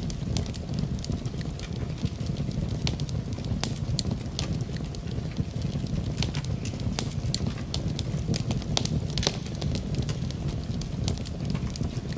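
Wood fire crackling in a fireplace: irregular sharp pops and snaps over a steady low rumble, mixed with rain.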